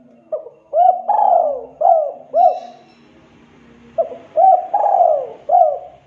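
Spotted dove (tekukur) cooing: two phrases of about five short coos each, separated by a pause of about a second and a half.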